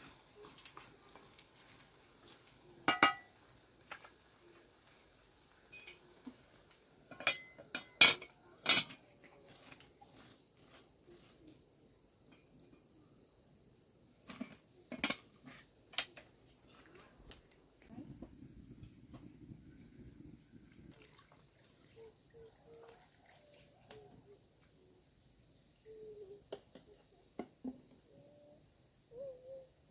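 Steady high chirring of insects, with scattered clinks and knocks of kitchen utensils and dishes, loudest about eight seconds in.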